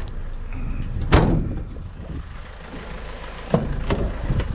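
Metal scooters being wrestled into the back of a van: one loud bang about a second in, then a few sharp knocks near the end, over a low steady rumble.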